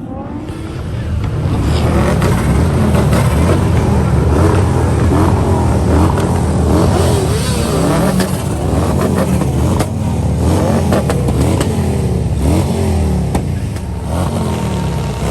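Car engine revving hard again and again, its pitch climbing and dropping over and over, loud from about a second in.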